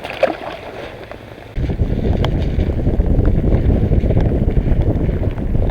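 Wind buffeting the microphone: a low, rough rumble with no pitch that comes in suddenly about a second and a half in and eases off near the end.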